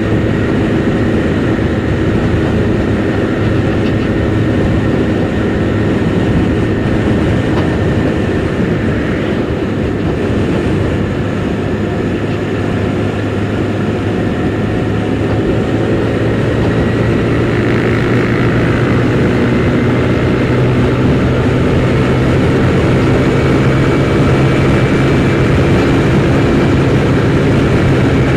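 Kymco Super 8 scooter engine running steadily under load on a climb, heard from inside the rider's helmet along with rushing wind noise; the engine note rises a little and gets somewhat louder in the second half.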